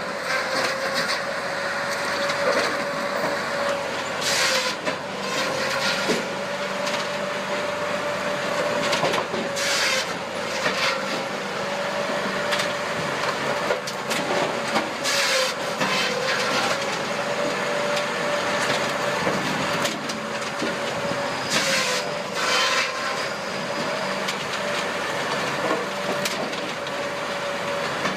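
A machine running with a steady, slightly wavering hum, broken by several brief loud hissing bursts spaced roughly five to six seconds apart.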